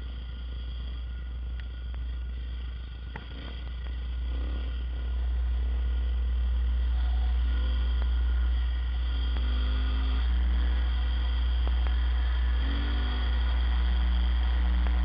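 Dirt bike engine running under way on a sandy trail, its pitch climbing and dropping several times as it accelerates and eases off. Heavy wind rumble on the helmet-mounted microphone lies under it.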